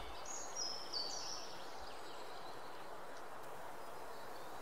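A bird chirping in short series of falling notes during the first second and a half, over a steady background hiss.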